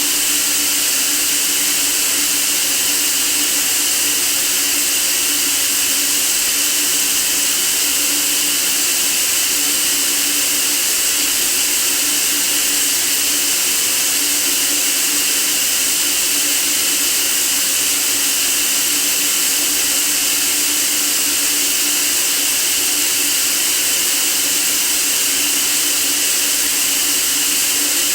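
Steady white noise: an even, unbroken hiss, strongest in the upper register, with a faint low hum underneath.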